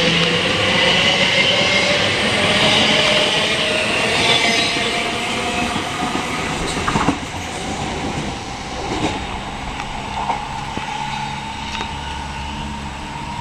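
Class 345 electric multiple unit pulling away, its traction motor whine rising steadily in pitch as it accelerates, with some wheel squeal and rail noise; the sound eases about halfway through.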